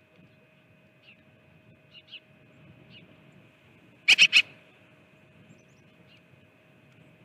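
A bird calling close to the microphone: a few faint chirps, then a quick burst of three or four loud, sharp notes about four seconds in.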